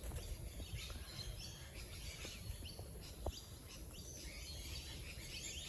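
Faint birdsong: many short, high chirps from several birds, overlapping throughout.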